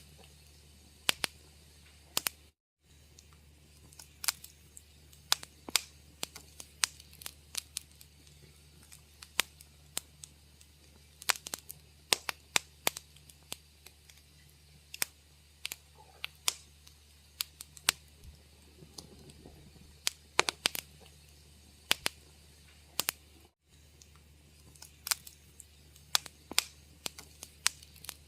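Wood fire crackling in a fireplace: irregular sharp pops and snaps, several a second, over a faint steady low hum. The sound cuts out to silence briefly twice, about two and a half seconds in and again near the end.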